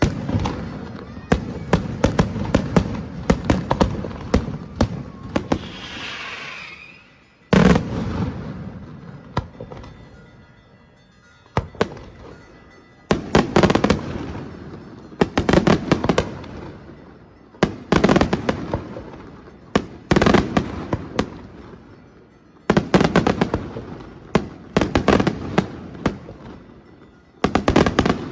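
Daylight aerial fireworks: volleys of sharp, loud bangs and crackling reports come in clusters every two to three seconds, each volley trailing off in an echoing rumble. There is a hissing, rising sound shortly before a heavy bang at about seven and a half seconds.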